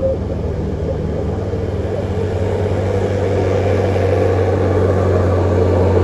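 Heavy truck's diesel engine running steadily under load, a deep hum that grows slowly louder.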